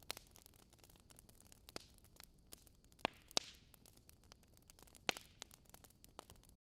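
Wood fire crackling in a fireplace: faint hiss with scattered irregular snaps of burning logs, a pair of louder pops about three seconds in and another about five seconds in. The sound cuts out briefly near the end.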